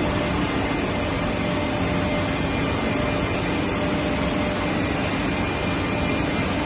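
A WoodMaster WM-1500X three-axis CNC wood lathe running, a steady machine noise with a faint steady hum in it.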